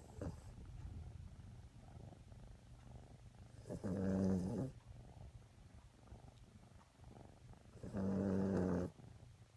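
A sleeping dog snoring with a purr-like rattle: two long snores, each about a second, roughly four seconds apart, over a faint low hum between breaths.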